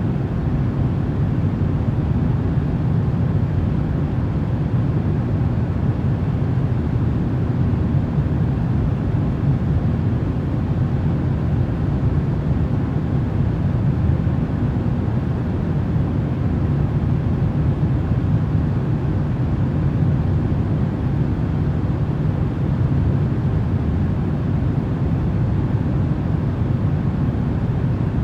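Steady, even low rumbling noise used as sleep white noise, with no changes or separate events.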